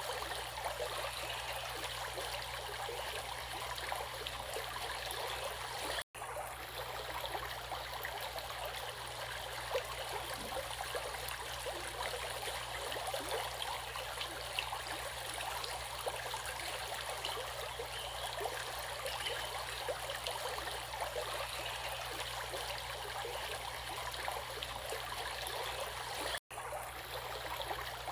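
Running water flowing steadily, like a stream or small river, with an even rushing and gurgling. It cuts out to silence for an instant twice, about six seconds in and near the end.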